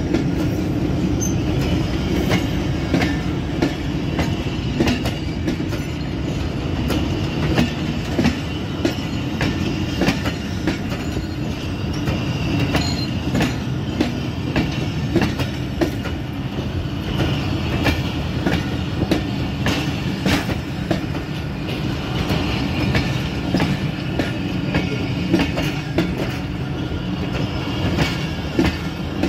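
Pakistan Railways Awam Express passenger coaches rolling past at close range as the train pulls out: a steady rumble of steel wheels on the rails with many sharp clacks over rail joints.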